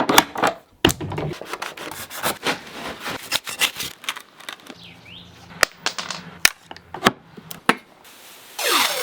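A rapid, irregular series of sharp knocks and clicks.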